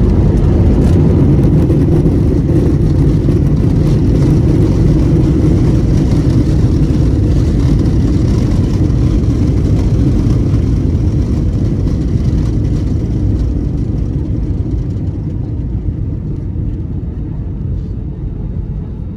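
Airbus A321-200 cabin noise on the ground after landing: a loud steady jet rumble that slowly quietens and dulls over the last several seconds as the aircraft slows.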